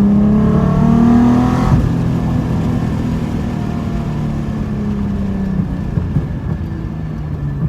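Straight-piped Nissan 300ZX exhaust under acceleration: the revs climb for the first two seconds, there is a short sharp crack, and then the engine note runs on steadily and slowly drops as the throttle eases.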